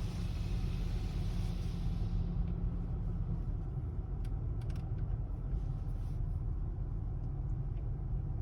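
Steady low rumble inside a car's cabin in an automatic car wash, with a hiss that fades out about two seconds in and a few light clicks later on.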